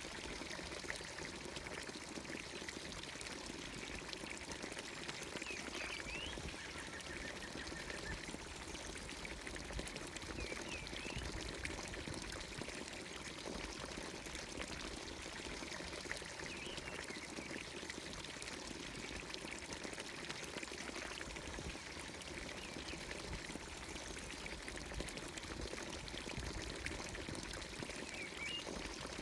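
Water pouring steadily from a traditional village fountain's spout into its trough, with a few faint bird chirps now and then.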